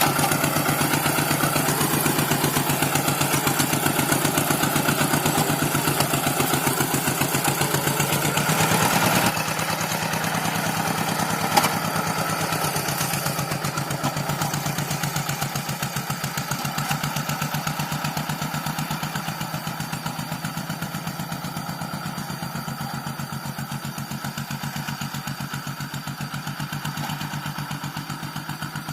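Paddy-field tractor engine running steadily with an even, rapid beat. About nine seconds in it suddenly drops in loudness, a single sharp knock comes a couple of seconds later, and then the engine slowly grows fainter.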